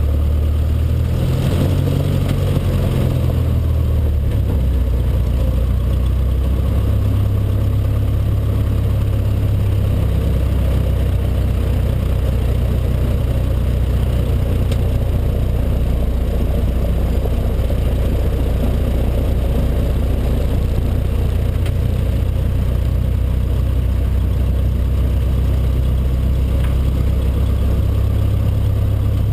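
Cessna 152's four-cylinder Lycoming O-235 engine and propeller running steadily at low power, a continuous low drone whose pitch shifts slightly in the first few seconds.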